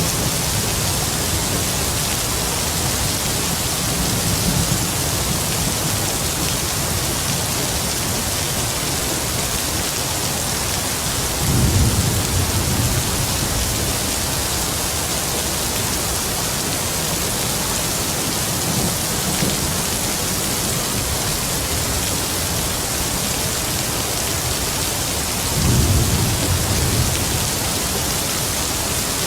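Heavy rain falling steadily, with distant thunder rumbling low: two clear rolls, about twelve seconds in and again near the end, and fainter rumbles between.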